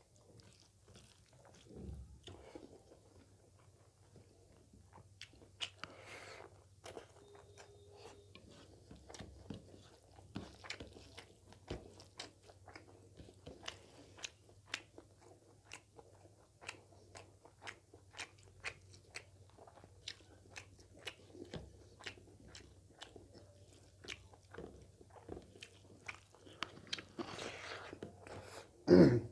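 A man chewing a mouthful of pork and rice, with many small wet mouth clicks and smacks coming irregularly. Just before the end there is one brief, louder mouth sound.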